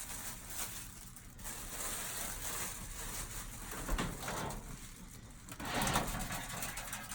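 Crinkling and rustling handling noise, louder about four seconds in and again near the end.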